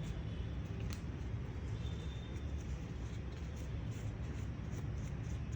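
Dry tissue paper wiping and rubbing inside an opened laptop, faint scratchy rustles and a light click over a steady low hum.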